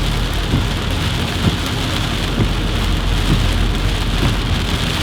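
Rain pouring down steadily.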